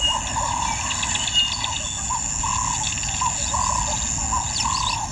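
Wild bush ambience: insects droning steadily on a high note, with a short call repeated about twice a second and scattered bird chirps.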